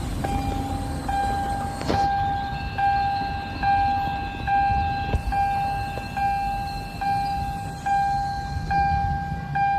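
Railway level-crossing warning alarm sounding a repeated pitched tone, a little more than once a second, with a low rumble underneath.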